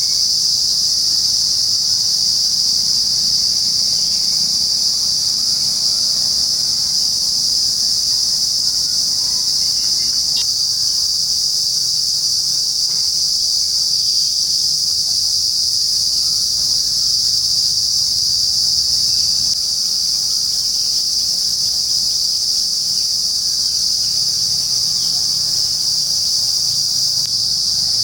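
Daytime insects in trees making a continuous, loud, high-pitched drone that holds steady without pause.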